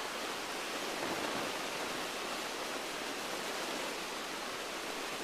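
Steady, even rushing cabin noise inside a Beechcraft Musketeer light aircraft on approach, engine throttled back and air rushing past the airframe. It sounds like a broad hiss with no distinct engine tone standing out.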